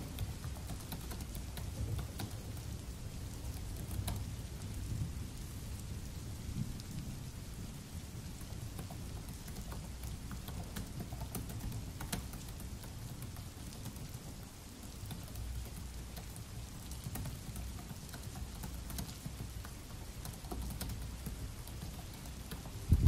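Steady rain with low rumbling, and faint scattered key clicks from typing on a laptop keyboard. A sudden louder low thump comes at the very end.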